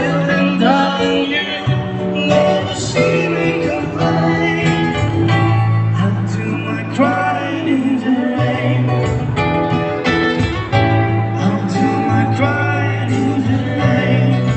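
A song performed by a singer with guitar accompaniment and a steady bass line.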